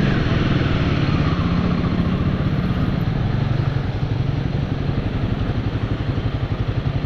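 Royal Enfield motorcycle engine running steadily under way, with a constant rush of wind and road noise over it.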